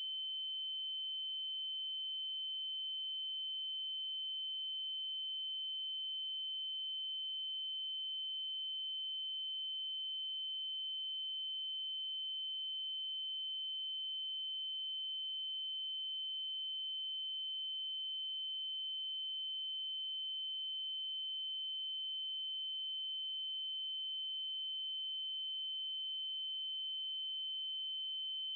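A steady, unbroken 3072 Hz triangle-wave tone: a single high-pitched electronic tone with faint overtones above it.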